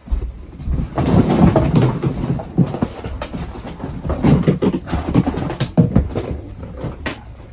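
Irregular clattering and knocking of objects being picked up, moved and put back, with rattles and thuds close together.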